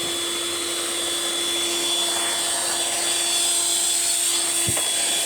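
Eureka The Boss Super Light upright vacuum cleaner running, its motor giving a steady high whine and rush of air. Near the end a single knock sounds and a steady low hum beneath the whine cuts off, while the motor keeps running.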